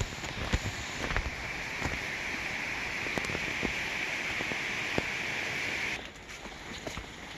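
Steady rush of flowing water, cutting off abruptly about six seconds in, leaving quieter outdoor sound with scattered clicks.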